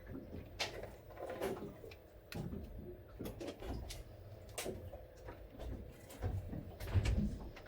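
Irregular light clicks and knocks with a few low thumps, the loudest near the end, over a faint steady hum: handling noise close by.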